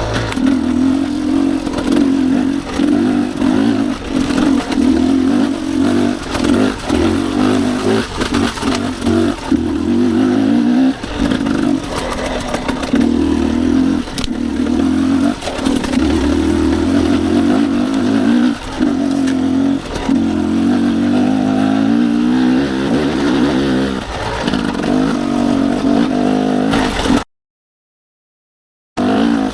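Dirt bike engine running on a rough trail, its revs rising and falling in repeated throttle pulses, with clatter and knocks from the bike over the ground. The sound cuts out completely for about a second and a half near the end, then resumes.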